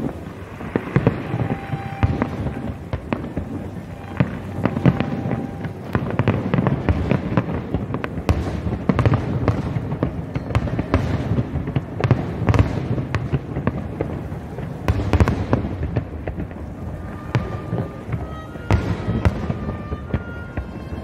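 Aerial firework shells bursting in a rapid, unbroken barrage of bangs and crackles, the pops coming several a second and densest in the middle.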